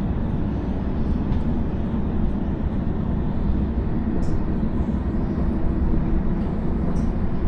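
Double-decker electric passenger train running, heard from inside the carriage: a steady low rumble of wheels on track, with a few faint clicks.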